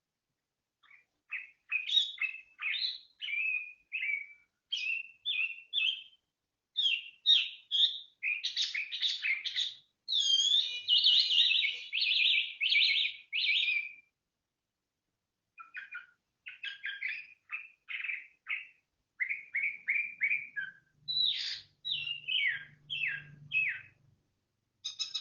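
A songbird singing a fast, varied song of chirps and trills in phrases, pausing for a second or two about halfway through.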